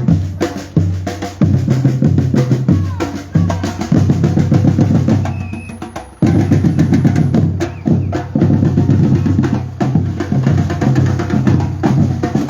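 Batucada street drumming: deep bass drums and snare drums playing a dense, driving rhythm together. It thins out briefly about five seconds in and comes back in full about a second later.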